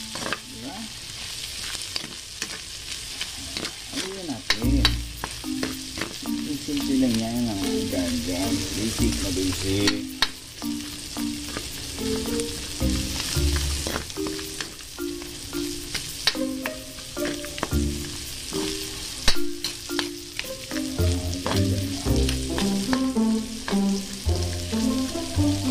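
Diced pork and onions sizzling in hot oil in a metal wok while a metal spatula stirs them, with frequent sharp clicks and scrapes of the spatula on the pan. Low notes changing in steps play underneath.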